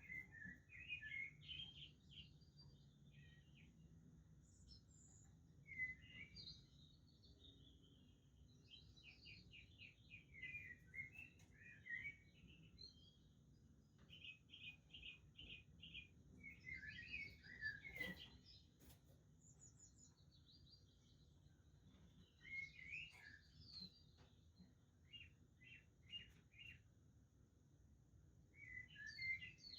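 Budgerigars chattering faintly in on-and-off bursts of chirps, some as quick runs of short repeated notes.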